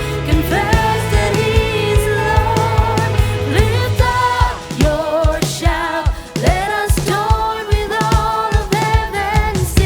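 Live worship band playing contemporary Christian music: singers holding long, wavering notes over bass and a steady drum beat.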